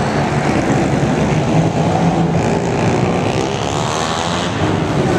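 Small pit bike engines buzzing at racing revs, their pitch rising and falling as the throttles open and close.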